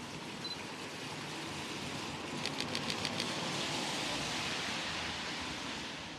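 Steady outdoor street noise with passing traffic, and a quick run of about eight sharp clicks about two and a half seconds in.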